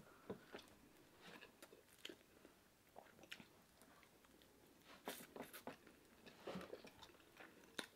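Faint chewing of fried fish eaten by hand, with scattered small clicks and smacks that bunch up a little past the middle.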